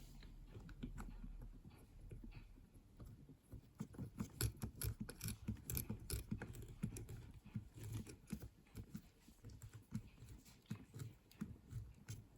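Faint, irregular small clicks, taps and rubbing of hands and tools handling parts while a new run capacitor is fitted into a mini dishwasher, busier from about three and a half seconds in.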